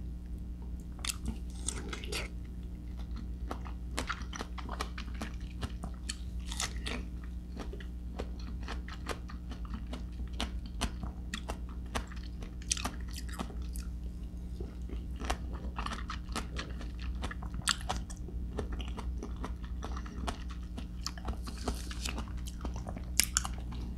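Close-up chewing of crisp persimmon (hồng giòn), a steady run of small crunching clicks. A steady low hum sits underneath.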